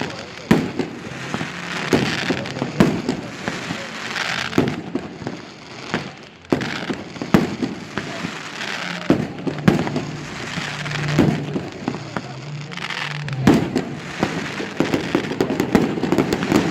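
Fireworks display: aerial shells bursting with sharp bangs, one or two a second, mixed with spells of crackling from the bursting stars.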